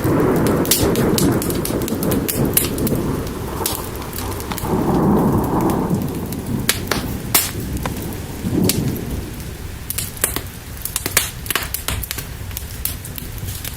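Rain falling with rolls of thunder: low rumbles that swell and fade three times, dying away about two-thirds of the way through. Frequent sharp crackles and pops from a wood fire run throughout.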